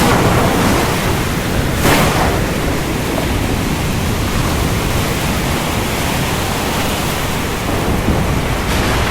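Stormy ocean: a steady rush of surf and wind, heaviest in the low end, with one brief sharp crash about two seconds in.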